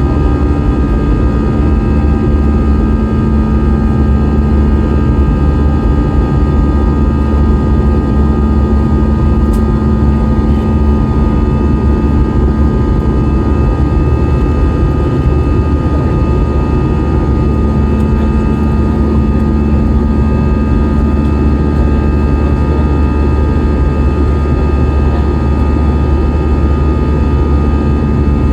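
Airliner engines heard from inside the cabin: a loud, steady low rumble with several steady whining tones above it.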